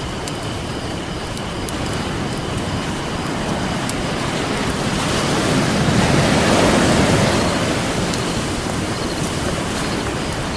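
Ocean surf washing in steadily, one wave building to its loudest about six seconds in and then falling back. Faint sharp crackles of a campfire over it.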